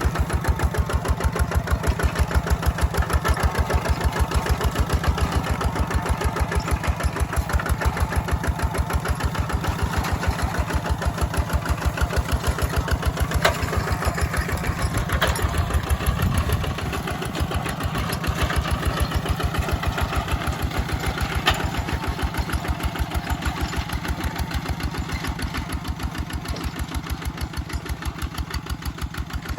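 Walking tractor's engine running with an even, rapid pulse. A few sharp clicks come around the middle, where the pulse briefly dips and shifts. The running grows a little quieter toward the end.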